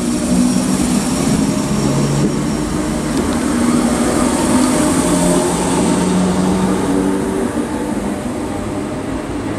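Class 313 electric multiple unit running past along the platform: a steady rumble of wheels on rail with humming motor tones that shift in pitch, easing a little near the end as the last coach goes by.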